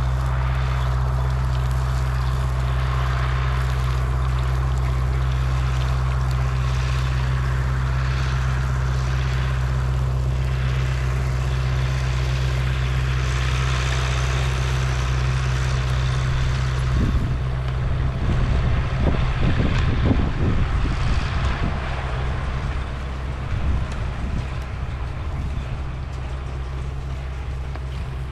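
Vehicle engine running at a steady speed, a constant low drone over a noisy rush. From about two-thirds of the way through come irregular low thumps and rumbles.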